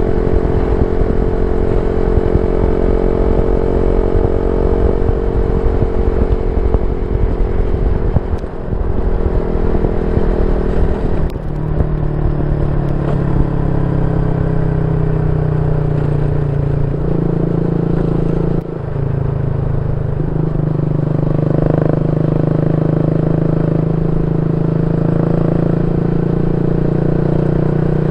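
Yamaha Y15ZR's 150cc single-cylinder engine running through an aftermarket YYPANG SD3 exhaust, a steady note that dips briefly and changes pitch a few times (about a third of the way in, near the middle and about two-thirds of the way in).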